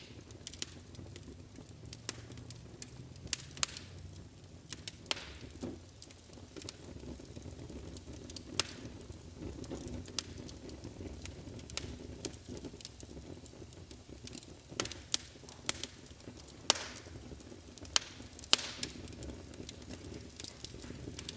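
Wood fire burning in a fireplace, with irregular sharp crackles and pops over a soft low rumble of flame.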